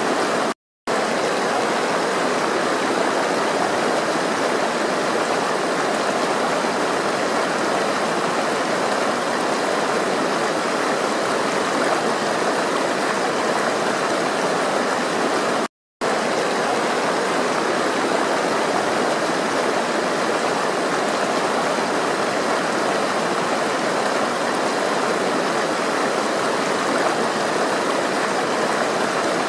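Water flowing steadily, a continuous rushing like a stream. It cuts out to silence for a split second twice, just under a second in and about halfway through.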